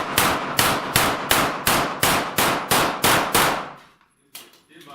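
A rapid string of pistol-calibre shots at steel plates, about three a second, each with the metallic clang of a plate being hit. The string stops about three and a half seconds in.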